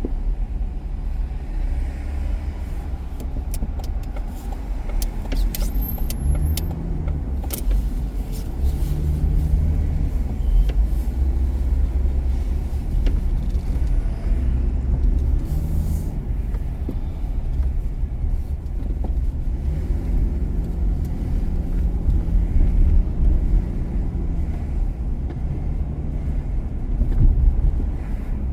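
A car driving on city streets: a steady low rumble of engine and road, with a faint engine note rising and falling. A few sharp clicks come between about three and eight seconds in.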